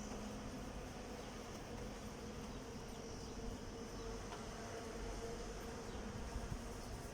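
A steady, faint buzzing hum that wavers slightly in pitch.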